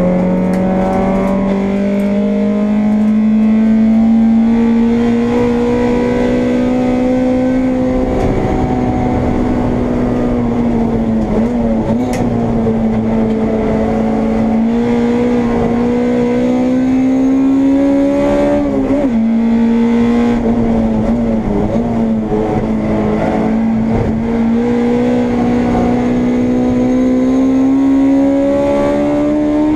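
Honda Integra race car's four-cylinder engine heard onboard at high revs under racing load, its pitch climbing slowly through long pulls and dipping briefly three times near the middle. Road and wind noise run underneath.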